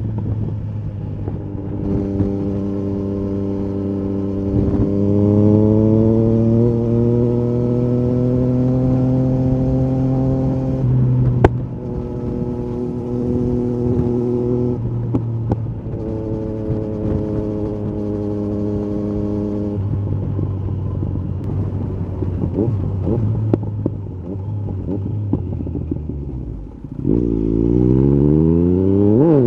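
Yamaha MT-09 SP inline three-cylinder with an Akrapovic carbon exhaust, ridden under load. For several seconds the engine pitch climbs slowly as the bike pulls in gear, then it holds steady at cruise, broken by a sharp crack. Later comes a stretch off the throttle full of irregular crackles, and near the end a quick rising rev as the bike accelerates hard.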